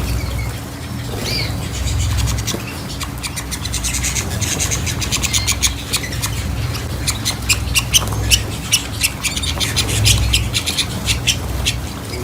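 Pet birds calling, with a quick run of short sharp ticks from about three seconds in, over a steady low hum.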